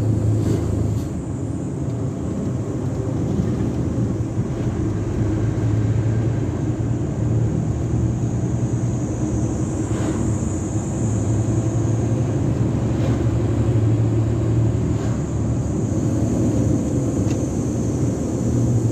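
Isuzu Giga semi-trailer truck driving, a steady low engine drone mixed with road noise.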